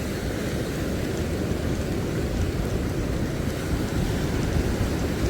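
Steady wind rumbling on the microphone over the wash of sea surf on the shore.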